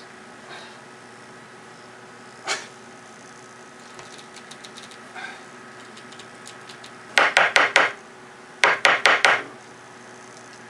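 Sharp knocks on a small bottle of model paint whose lid is stuck: one knock a few seconds in, then two quick runs of four or five knocks each, about a second apart.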